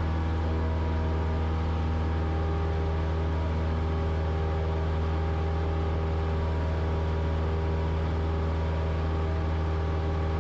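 Cessna 172's piston engine and propeller droning steadily in the climb, heard from the cockpit as an even low hum with no change in pitch or level.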